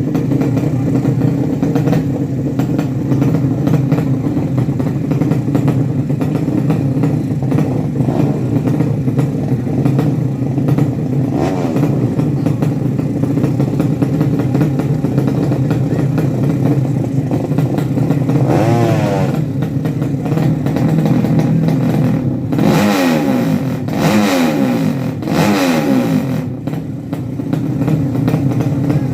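Drag-racing motorcycle engines running steadily, with sharp rising revs about 19 s in and a cluster of rising revs from about 23 to 26 s in.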